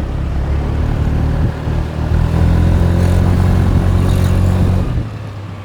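Motorbike engine running under way with a low drone. It gets louder about two seconds in, then drops back sharply near the end.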